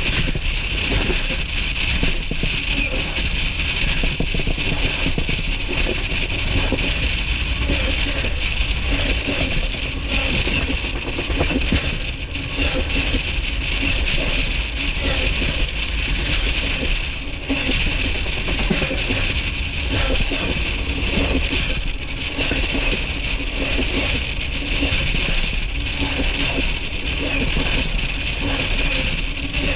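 Train cars rolling directly overhead, heard from between the rails: a loud, steady rumble with wheels running on the rails, a hissing rush and scattered clicks and clatter.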